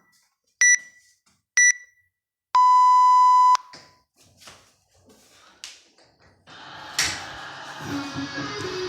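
Workout interval timer finishing its countdown: two short high beeps a second apart, then a long, lower start tone lasting about a second. A few soft knocks follow, and music comes in about six and a half seconds in, with a couple of sharp knocks over it.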